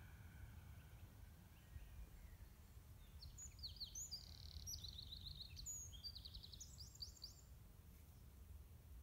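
A songbird singing a quick series of high chirps and trills from about three seconds in until about seven seconds, over a faint low background rumble.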